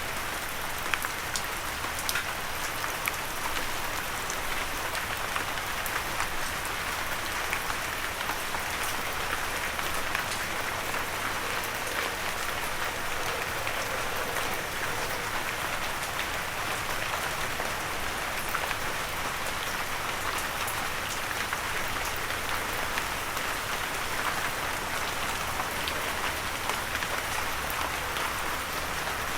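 Steady gentle rain falling on a surface, an even hiss with many small drop ticks scattered through it.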